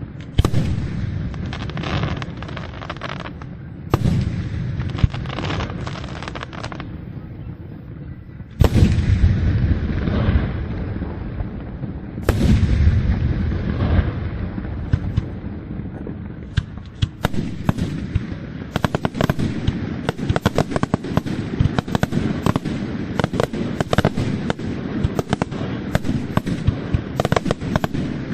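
Aerial fireworks display: shells bursting with crackle, two heavy booms about nine and twelve seconds in that rumble away slowly, then from about seventeen seconds a rapid barrage of sharp reports, several a second.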